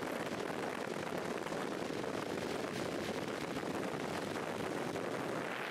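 Steady, even rushing noise with no distinct tones or knocks.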